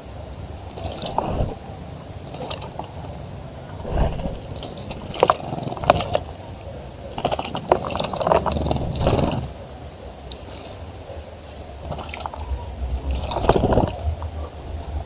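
Water splashing in a bird bath as a bird bathes, in irregular bursts that are busiest in the middle and again near the end, over a steady low rumble.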